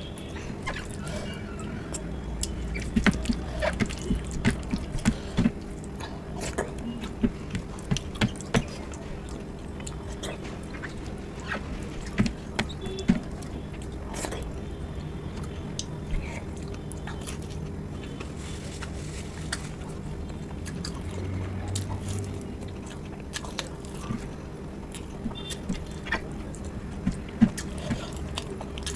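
Close-miked eating sounds: a person chewing and smacking on handfuls of dal khichdi eaten with the fingers, with wet squelches as the hand mixes the rice and lentils on the plate. There are many short, sharp mouth clicks throughout.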